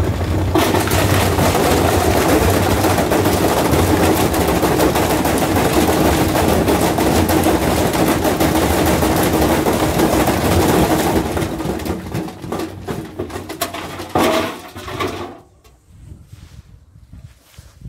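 Washing machine running hard during a deliberate destruction run, a loud rapid rattling and banging over a steady motor hum. The noise dies down from about 11 seconds in and stops a few seconds later.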